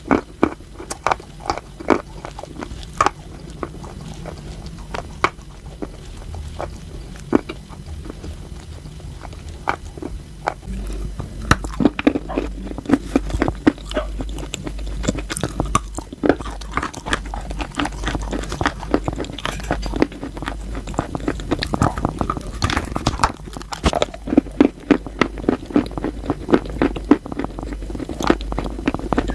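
Close-up crunching and chewing of chalk being bitten, a quick run of sharp crunches that gets denser and louder about ten seconds in.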